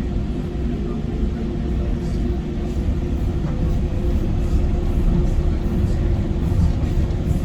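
Docklands Light Railway automated light-metro train running between stations: a steady low rumble with an even hum from the drive.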